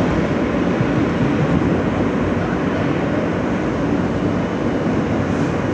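Steady rumble of an R160 New York subway car running between stations, heard from inside the car: wheels on rail and motor noise.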